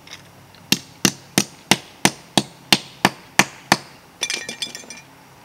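Ten quick, evenly spaced hammer blows, about three a second, during a motorcycle muffler install, followed near the end by a short jingle of small metal pieces.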